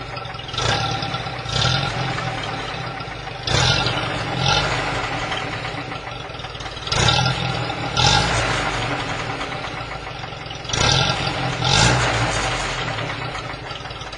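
UAZ-31512 engine idling through a newly fitted exhaust with a muffler and resonator. Four times, it is blipped twice in quick succession, about every three to four seconds, and each rev dies back down to idle.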